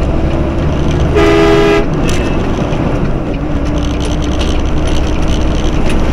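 A vehicle horn sounds once, briefly, about a second in, over the steady low rumble of engine and road noise heard from the driver's seat of a truck.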